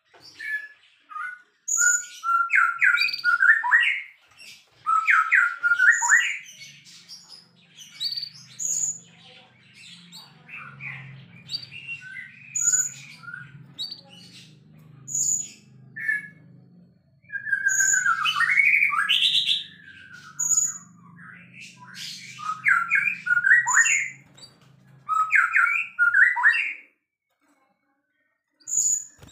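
White-rumped shama (murai batu) singing loudly in repeated phrases of quick, gliding whistled notes punctuated by sharp high chips, with short pauses between phrases. A faint low hum runs under the middle of it, and the song stops about two seconds before the end.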